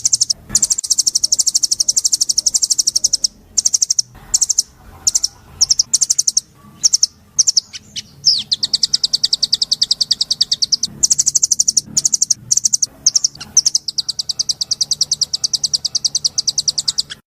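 A small cage songbird singing long, very fast, high-pitched trills, broken by short pauses and clipped note groups, as in a bird-song training (masteran) recording.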